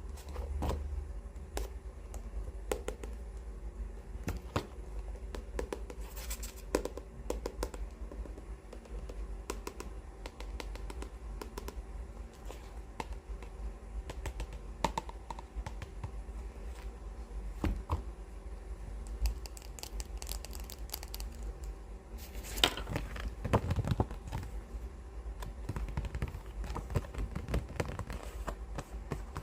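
Hands handling a book: scattered light taps and scratches on the cover, with paper rustling as pages are flipped, busiest about two thirds of the way in. A steady low hum runs underneath.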